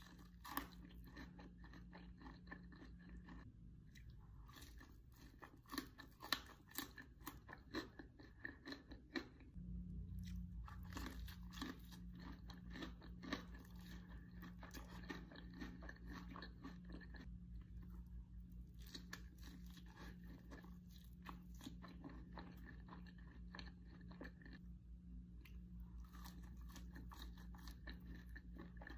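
Close-up biting and chewing of a crispy breaded chicken tender dipped in a creamy dip, with crunchy crackles throughout and a few sharper crunches at the start and around six seconds in. A faint low hum runs underneath and grows louder from about ten seconds in.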